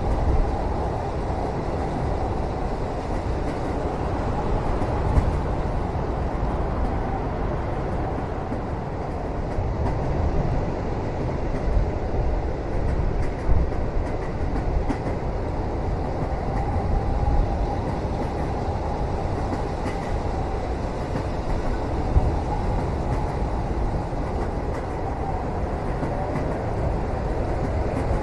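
Steady low rumble of a moving train heard from inside a passenger carriage, with a few brief knocks scattered through.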